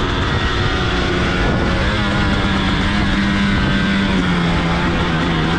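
Two-stroke KTM dirt bike engine running under way at a steady pitch, easing off slightly about four seconds in, with wind and riding noise.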